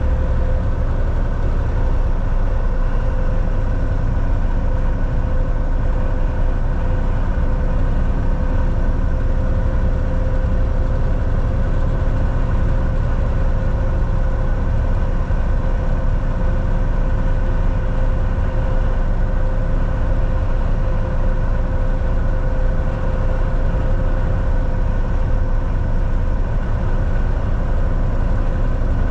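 Volvo VNL 760 semi-truck driving at a steady speed, heard from inside the cab: a constant deep engine and road rumble with a steady whine over it.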